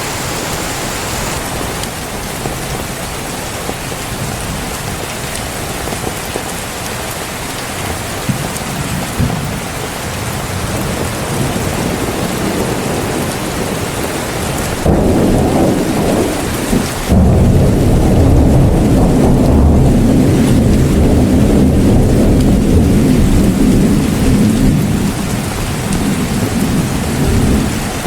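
Heavy rain falling steadily. About halfway through, thunder breaks in with a loud, low rolling rumble that lasts about ten seconds and eases off near the end.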